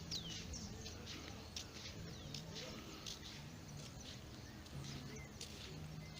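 Birds chirping, with quick sliding high notes clustered at the start and scattered short calls after.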